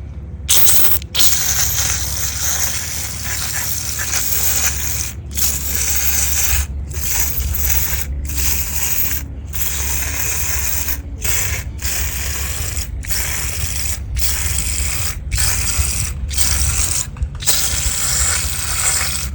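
Aerosol can of Frost King ACF19 foaming coil cleaner spraying onto a motorcycle's radiator coil: a loud hiss in a long series of bursts, broken by about a dozen brief pauses.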